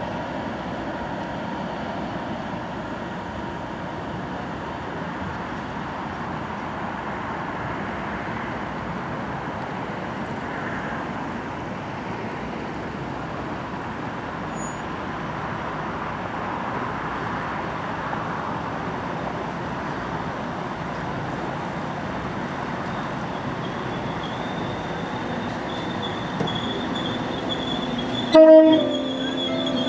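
Diesel trains at a station: a Class 67 diesel locomotive's train running away into a tunnel while a Class 197 diesel multiple unit runs in and brakes, a thin high brake squeal rising over the steady train noise in the last few seconds. Just before the end comes a short, loud toot.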